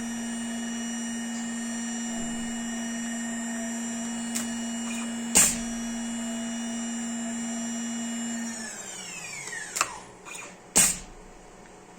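Electric motor of a homemade CNC lathe setup running with a steady whine, with a sharp clack about five seconds in. About nine seconds in it winds down and coasts to a stop, followed by a couple more clacks, the loudest near the end.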